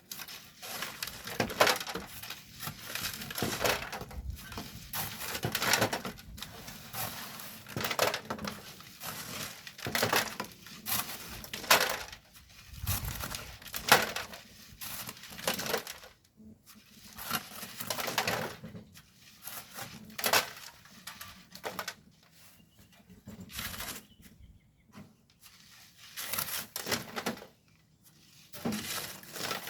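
Shovels or hand tools scraping and crunching into coarse volcanic sand and gravel, a gritty stroke about once a second with short pauses in between.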